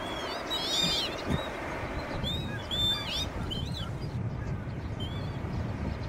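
Wild birds giving short, high, arched chirps in two quick clusters, about half a second in and again around the third second, over a steady low rumble of background noise.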